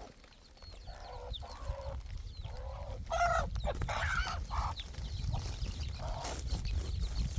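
Chickens clucking in short calls that come and go several times, over a steady low rumble.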